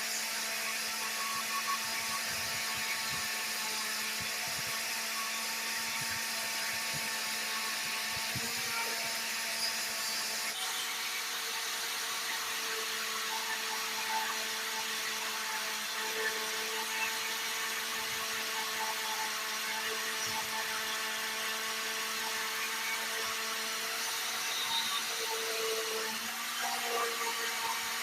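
Small high-speed electric power tool running steadily, a constant hum with a hiss over it.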